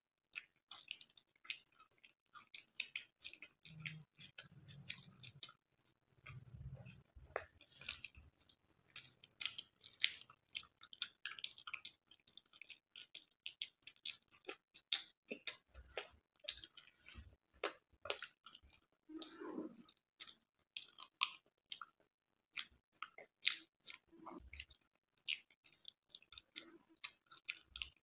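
Close-miked wet chewing of a soft, syrup-soaked gulab jamun: a dense, irregular run of sticky mouth clicks and lip smacks, with a few dull low thuds.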